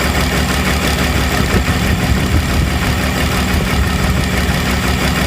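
Tractor-driven forage chopper running steadily: a continuous engine drone with the chopper's machinery noise over it. The chopper is running again after being repaired.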